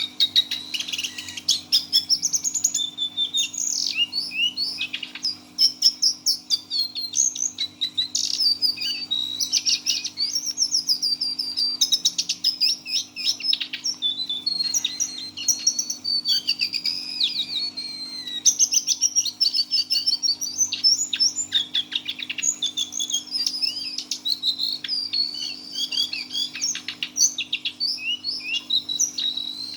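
Brown jongkangan (cingcoang coklat, the lesser shortwing) singing a long, rambling, nearly unbroken song in the 'teler' style. It is a fast run of high chirps, trills and whistled phrases, with a long falling whistle about halfway through. A faint steady low hum runs underneath.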